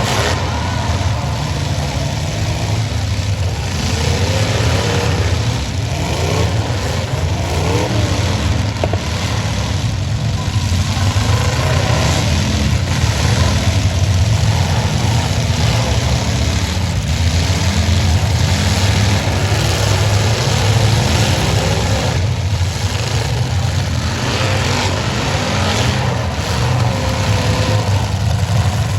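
Several demolition derby cars' engines running and revving hard at once, a loud continuous drone with rising and falling pitch.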